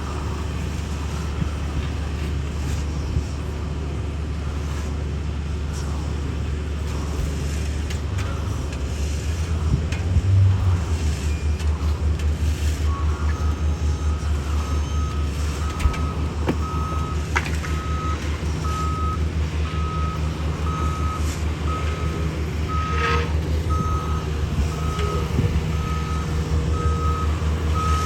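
Heavy road-paving equipment running with a steady low engine rumble that swells about a third of the way in and takes on a pulsing beat. Starting about halfway through, a reversing alarm beeps steadily at one pitch, about one and a half beeps a second, as a machine backs up.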